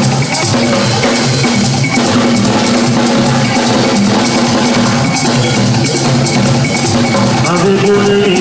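Live band playing an instrumental passage: drums and percussion over sustained bass and pitched instrument notes.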